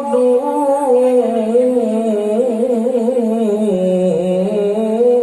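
A man reciting the Qur'an in melodic tajwid style, drawing out one long ornamented phrase with a wavering, trilling pitch. The melody sinks about four seconds in and rises again near the end.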